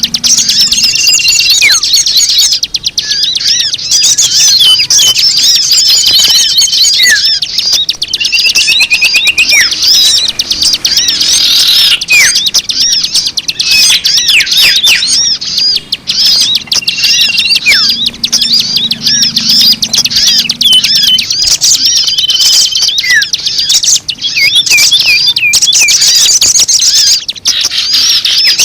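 Bird-lure recording of many small birds chattering and twittering densely and without pause, with short level whistled notes and quick down-sweeping chirps. The same pattern comes round every ten seconds or so, as in a looped caller track.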